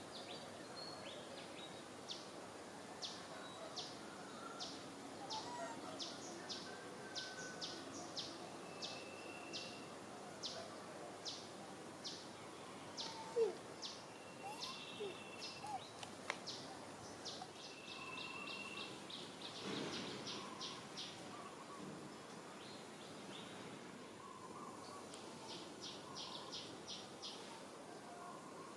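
Faint outdoor ambience with a bird giving runs of short, high chirps, about two to four a second, repeated on and off throughout. A brief louder sound comes about halfway through.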